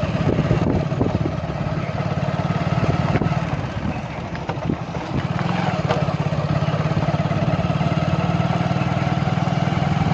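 Motor vehicle engine running steadily over road noise, easing off briefly about four to five seconds in and then picking up again.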